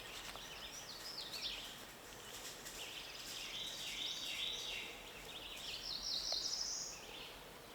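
Songbirds singing, with repeated rapid chirping and trilled phrases over faint steady woodland background noise.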